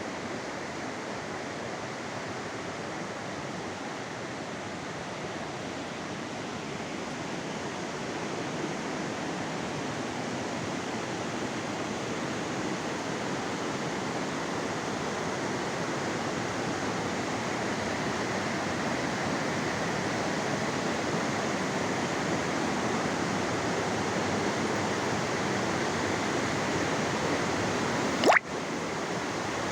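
Rushing water of a canyon stream or waterfall, a steady roar that grows slowly louder. A single sharp click sounds near the end.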